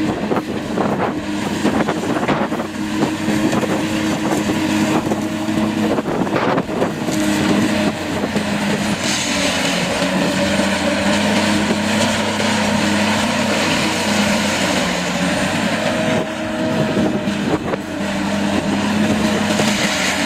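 Heavy diesel machine engine running steadily, with a run of short knocks and cracks in the first several seconds and a denser, hissier noise from about halfway.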